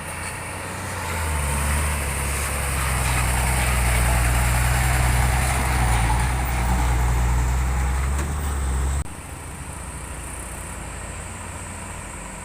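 Heavy truck's diesel engine running with a deep, steady drone that grows louder about a second in, then cuts off abruptly about nine seconds in, leaving a quieter engine hum.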